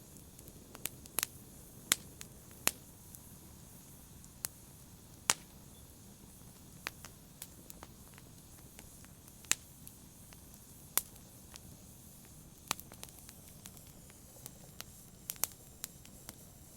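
Wood fire in a fireplace crackling: irregular sharp pops and snaps, a dozen or more, over a faint steady low rumble.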